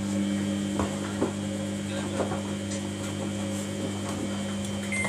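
Samsung washing machine running a wash, with a steady hum and a few scattered clicks from the machine and its turning drum.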